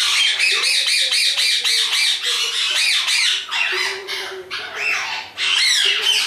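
A bird squawking and chattering in a fast, continuous run of short, rising-and-falling calls, with brief lulls a little after four and five seconds in.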